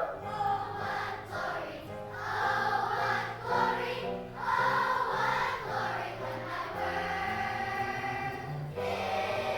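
A choir singing in parts, the voices moving from one held chord to the next.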